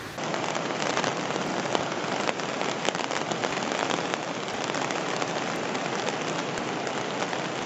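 Heavy rain falling, a steady dense hiss with many separate drop hits.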